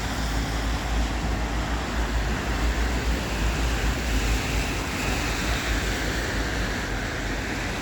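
Steady traffic noise with tyres hissing on a rain-wet road, and wind rumbling on the microphone.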